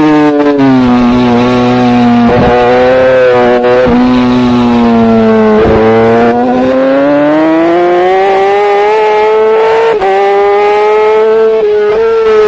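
Racing superbike engine heard from the bike itself, at high revs. The revs fall over the first few seconds with several sharp cracks as it slows, then climb steadily under hard acceleration. There is a sudden drop about ten seconds in, like an upshift, and the revs fall away again near the end.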